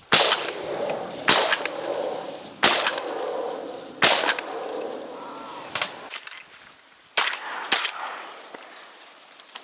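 Shotgun shots, about half a dozen sharp reports spaced one to one and a half seconds apart, each trailed by a fading echo; the last two come close together.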